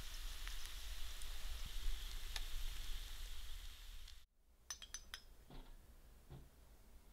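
Scallion pancake sizzling in the hot plates of an open waffle maker: a steady hiss with a few faint crackles. It cuts off suddenly about four seconds in, and a few light clinks follow.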